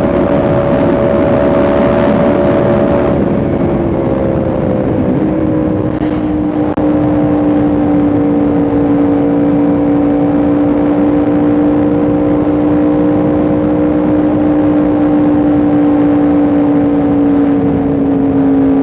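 Yamaha R1M's crossplane inline-four engine running under way at a steady speed. The note drops a little about three to five seconds in, then holds and slowly sinks lower.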